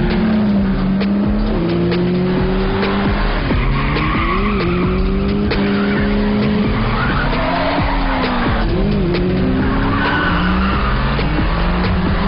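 Car chase: several car engines revving hard, their pitch climbing and dropping again and again as they accelerate and shift, with tyres squealing in bursts during hard cornering.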